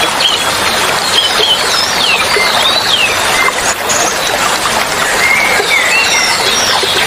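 Steady rush of flowing water with small songbirds chirping and whistling over it in short sliding notes, coming and going throughout.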